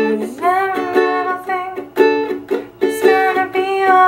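Ukulele strummed in a reggae rhythm with left-hand muting: short, clipped chord chops at an even pulse as the player switches from A to a fully muted D chord. A voice holds a gliding melody line over the strumming.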